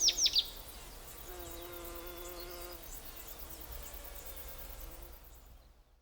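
A few bird chirps at the very start, then a faint, steady insect buzzing that fades away near the end.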